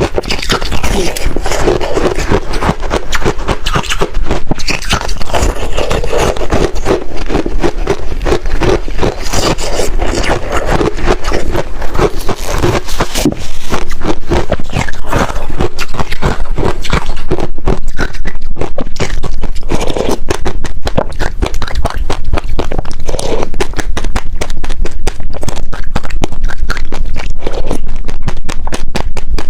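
Freezer frost crunching close to the microphone: a dense run of rapid, crackly crunches that gets a little louder about halfway through.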